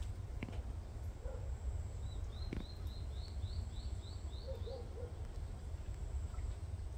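A bird singing a quick series of about nine short rising notes, roughly four a second, starting about two seconds in and stopping near five seconds, over a steady low outdoor rumble. Two sharp clicks sound early on and just after the song begins.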